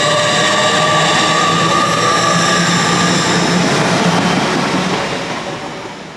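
Passenger train running in along the platform, its wheels and brakes squealing in several high tones over the rumble. The sound fades away over the last second or so.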